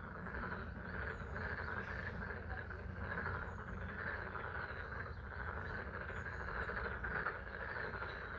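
A dense chorus of frogs calling at a pond, steady and slightly pulsing, with rain falling and a low rumble underneath.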